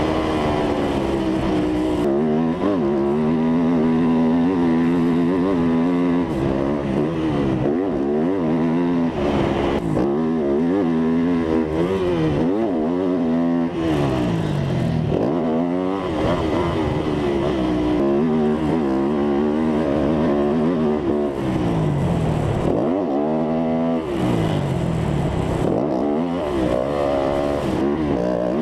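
Dirt bike engine revving hard, its pitch climbing and dropping again and again every second or two as it accelerates, shifts and backs off.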